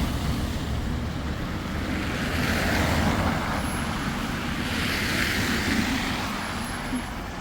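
Strong snowstorm wind blowing in gusts, rumbling on the microphone, with two swells about two and a half and five seconds in.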